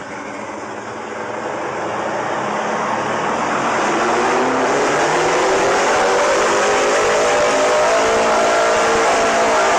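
Engine going into runaway: its speed climbs over a few seconds, then holds at a high, steady pitch, loud and unrelenting.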